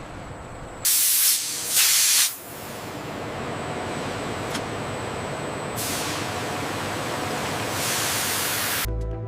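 A pressurised spray hissing: two short, sharp bursts about a second apart, then a steady hiss that cuts off suddenly near the end.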